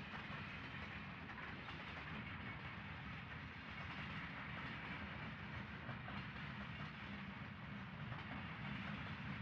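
Diesel train running by: a steady low rumble of the locomotive and rolling cars.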